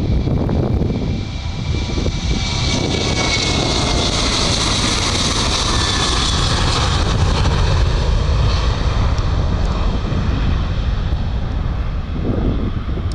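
Airliner passing by: its engine noise builds, peaks about halfway through with a whine falling in pitch, then fades. Steady low wind rumble on the microphone underneath.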